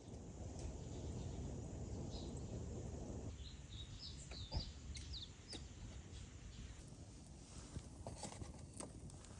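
Wild birds giving a quick run of short chirps in the middle. For the first three seconds there is a low rumbling noise, and scattered sharp clicks and snaps come through, more of them near the end.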